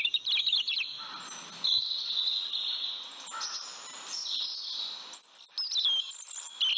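Birds chirping: quick, high, twittering calls that are busiest at the start and again near the end, with a fainter high, steady call in between.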